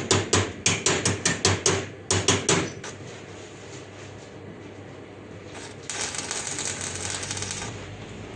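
Hammer striking metal in a quick run of sharp blows, about six a second, with a short break near two seconds in, stopping after about two and a half seconds. Later a steady scraping, hissing noise lasts about two seconds.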